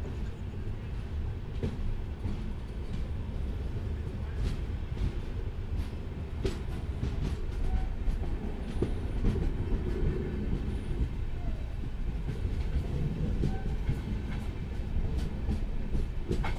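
Indian Railways sleeper coach rolling out of a station and picking up speed, heard from the coach: a steady low rumble of wheels on rail with scattered sharp clicks and knocks from the track.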